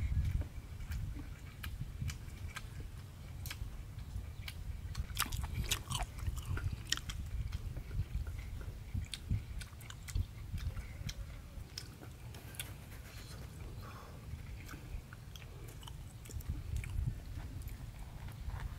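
A man chewing a mouthful of cooked pig intestines, with irregular wet smacks and mouth clicks.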